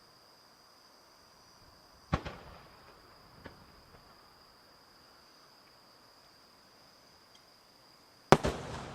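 Aerial fireworks going off: a sharp bang about two seconds in and a louder one near the end, each followed by a rolling echo, with a small pop between them.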